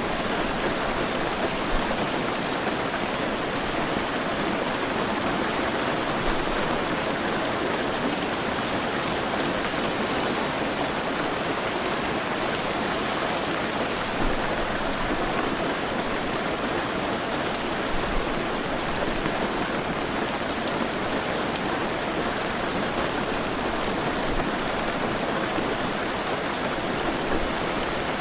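Heavy rain falling steadily, an even hiss of rainfall with a few slightly louder drops now and then.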